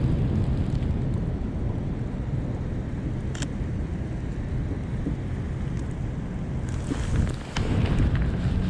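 Wind buffeting a chest-mounted action camera's microphone, a steady low rumble, with a few short clicks: one about three and a half seconds in and several near the end.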